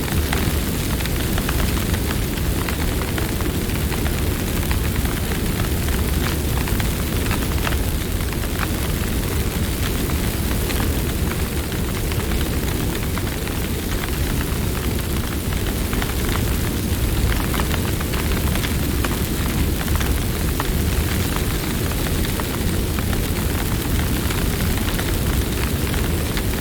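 Campfire burning with a steady low rumble and frequent small crackles and pops from the wood.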